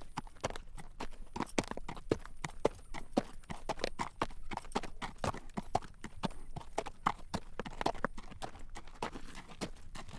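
Horse's hooves clip-clopping on a road at a walk as it draws a carriage: a quick run of sharp clacks, several a second.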